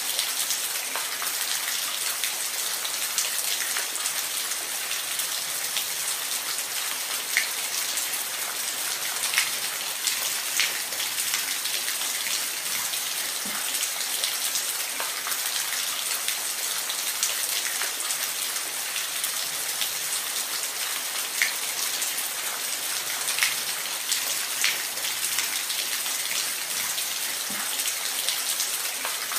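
Steady falling-water noise, an even hiss weighted toward the high end, with scattered drip-like ticks.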